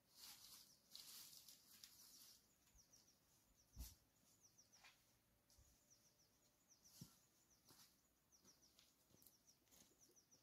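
Near silence with faint runs of quick, high chirps from small birds, and a single soft knock about four seconds in.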